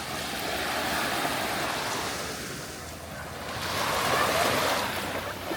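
Sea surf washing onto the shore, a steady rush of waves that swells about a second in, eases, and swells again near the end.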